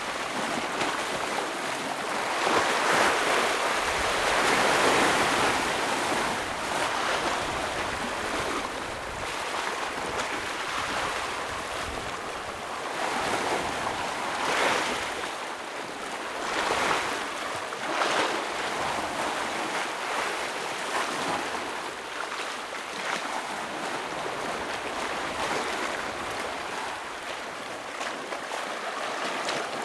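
Ocean waves breaking against rocks in a continuous wash of surf, with swells that rise and fall every few seconds and a few louder crashes.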